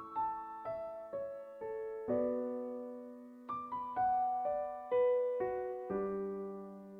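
Slow, gentle piano music: single melody notes struck about every half second, each ringing and fading, over held low notes that change every few seconds.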